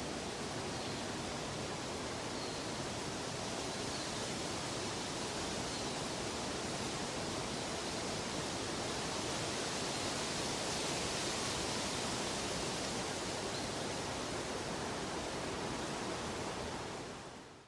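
Steady rushing water in a nature-sound ambience, an even hiss with a few faint short high chirps every second or two. It fades out near the end.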